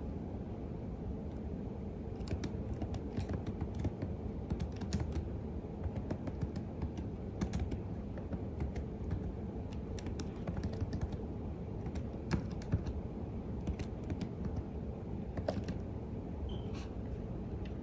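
Computer keyboard typing: irregular bursts of key clicks that start about two seconds in and thin out near the end, over a steady low rumble.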